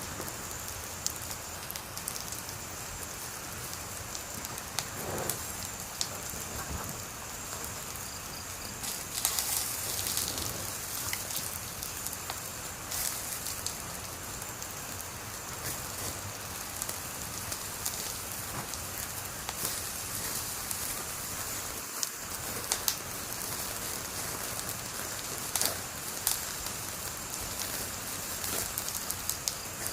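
Wood fire burning, with a steady hiss and frequent sharp crackles and pops, some coming in short clusters.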